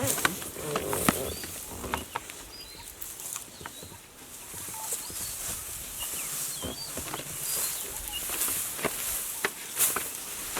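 Outdoor ambience with short, scattered bird chirps and irregular snaps and rustles.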